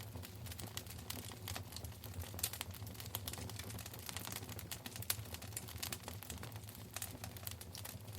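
Wood fire burning in a fireplace, crackling with irregular small snaps and a few louder pops over a low rumble of the flames.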